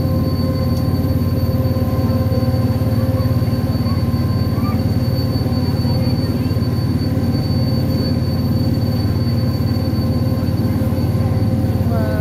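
Cog railway passenger car running uphill, heard from inside the cabin: a steady, loud low rumble with a few steady whining tones above it.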